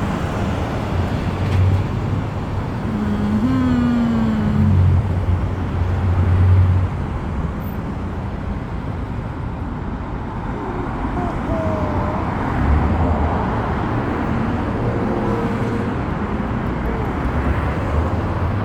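Long freight train rolling past, a steady rumble with street traffic noise mixed in.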